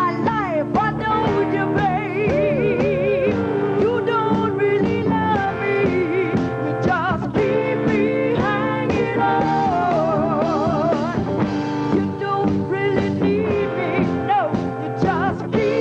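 Rock-and-roll band playing, with a voice singing a wavering, vibrato-laden melody over it.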